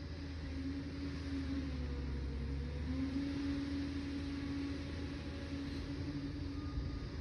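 Liebherr 746 crawler dozer's diesel engine running with a steady low rumble. Its note sags briefly about two seconds in, then climbs back.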